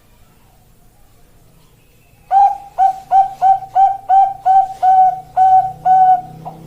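Zebra dove (Bangkok perkutut) singing: a run of about ten short, clear coo notes at about three a second, starting about two seconds in and ending in a longer held note.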